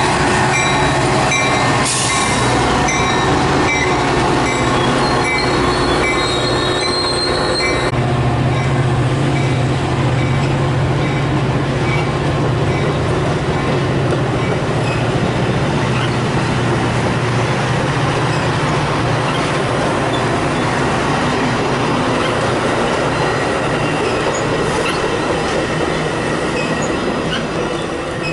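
Metra diesel commuter train pulling into the station: the locomotive engine drones steadily under loud rail noise with wheels squealing. A bell dings repeatedly for the first eight seconds or so. The sound cuts off suddenly at the end.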